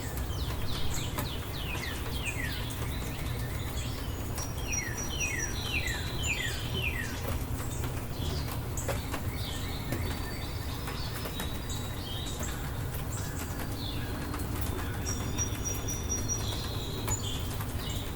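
Songbirds chirping over a steady low rumble: quick runs of downward-sliding chirps, densest in two bursts in the first half, with scattered higher peeps throughout.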